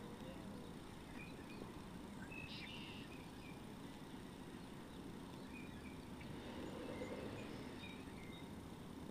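Faint, short bird calls, single high notes scattered every second or two, over a steady low background hiss.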